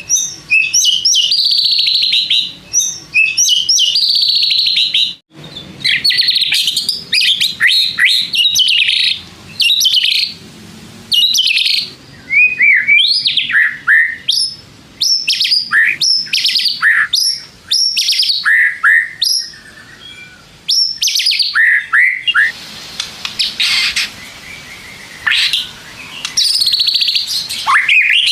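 White-rumped shama in full, vigorous song: a loud, varied run of rapid trills and whistled phrases with rising and falling slurs, broken by short pauses.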